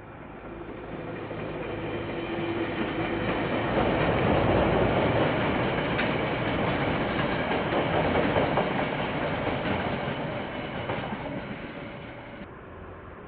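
KiwiRail train passing on the line: it grows louder over the first few seconds, is loudest around the middle, then fades away near the end.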